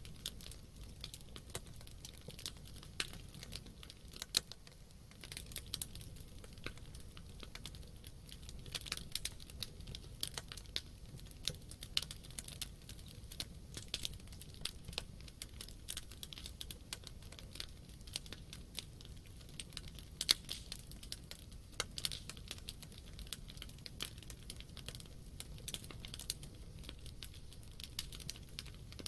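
Campfire burning: dense, irregular crackling and snapping of burning wood over a low steady rumble, with a louder pop about four seconds in and another about twenty seconds in.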